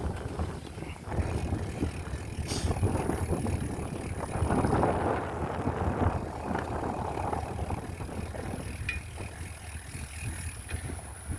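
Bicycle on the move: wind buffeting the microphone in uneven gusts, with the bike's mechanical rattling and ticking underneath.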